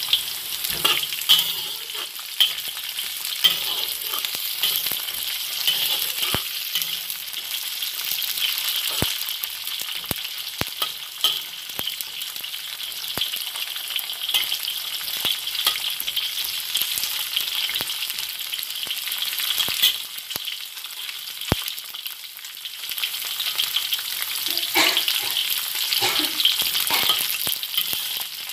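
Garlic cloves and sliced ginger sizzling steadily in hot oil in a wok, with a metal ladle clinking and scraping against the wok as they are stirred, in sharp clicks now and then and a busier run of knocks near the end.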